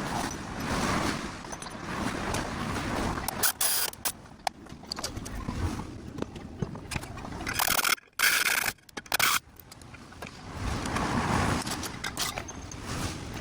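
Workshop tool noise from a car muffler replacement, sped up: irregular metal scraping and clicking, broken by sudden brief cut-outs about two-thirds of the way through.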